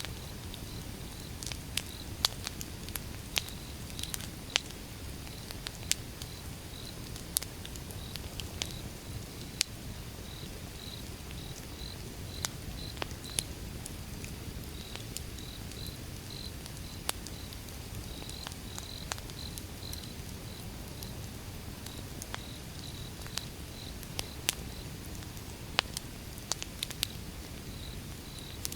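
Outdoor wood fire crackling: irregular sharp pops and snaps of burning firewood over a low steady rumble, with a faint high-pitched chirping repeating in the background.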